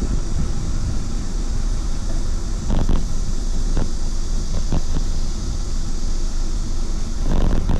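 Steady wind and road rumble from riding a bicycle, with a few short knocks or rattles, the clearest near the end.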